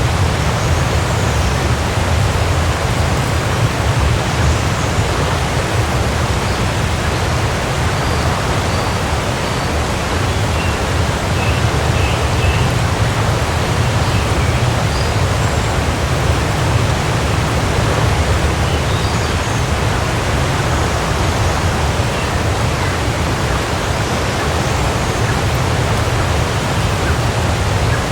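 Waterfall: a steady, loud rush of falling water, heaviest in the low rumble, with a few faint high chirps now and then.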